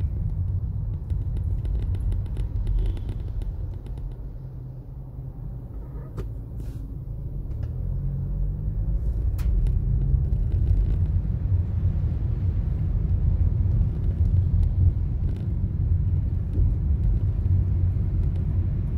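Toyota Corolla's engine and road rumble heard from inside the cabin while driving, a steady low rumble that eases off for a few seconds and then builds again as the car picks up speed.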